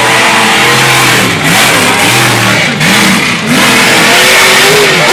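Monster truck engine revving hard, its pitch rising and falling again and again, with a few brief drops in loudness as the throttle comes off.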